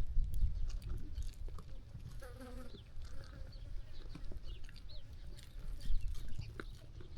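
Sheep flock grazing and walking: scattered clicks and rustles over a steady low rumble, with one short sheep bleat about two seconds in and faint bird chirps.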